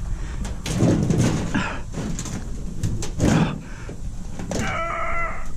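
Heavy stainless steel steamer parts being handled and shifted: scraping, knocks and clanks of metal. Near the end there is a short, steady high-pitched squeal.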